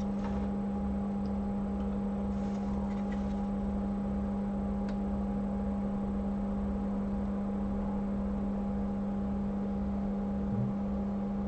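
Steady electrical or machine hum with a low, evenly pulsing drone underneath, and a few faint ticks in the first five seconds.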